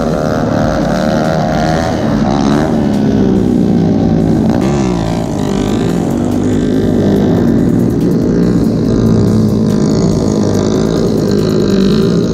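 Mini bike engines running, their pitch rising and falling with the throttle, several engines overlapping.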